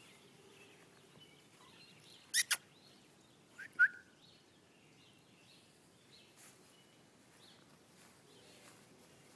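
Faint bird chirps in the background. About two and a half seconds in come two sharp clicks close together, and about a second later a short, loud, high squeak.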